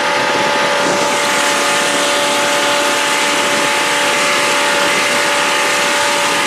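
Jet boat running flat out: a steady engine and jet drive whine with an even rushing noise over it, unchanging throughout.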